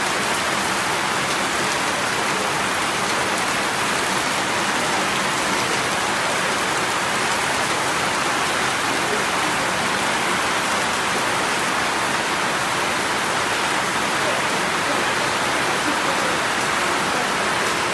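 Heavy rain falling steadily, with water streaming off the eaves and through holes in the roof.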